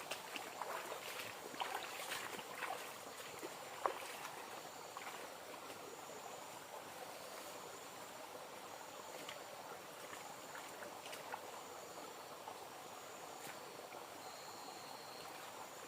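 River water trickling and lapping, with a few light knocks and rustles in the first four seconds. Faint high-pitched trills come and go over it.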